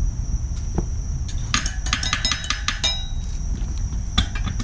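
Metal hand tools clinking and rattling against a dirt bike wheel's nuts as the rim lock is loosened: bunches of sharp clicks, thickest in the middle and again near the end.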